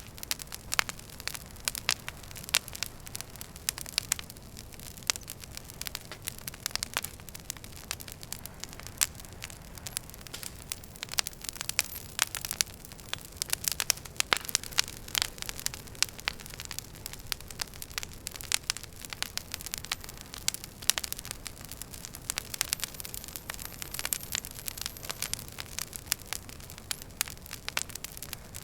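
Wood fire crackling in a fireplace: many sharp irregular pops and snaps over a steady low hiss.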